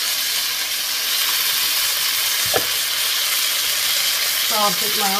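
Eel pieces and vegetables stir-frying in a hot wok with a steady sizzle, with one brief knock about halfway through.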